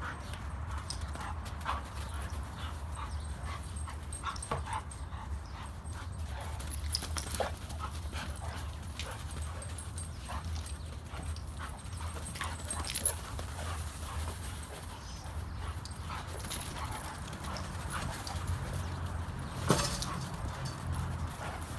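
Dogs playing together: scattered footfalls and scuffling with occasional dog whines and barks, over a steady low hum. Two sharper knocks stand out, about thirteen and twenty seconds in.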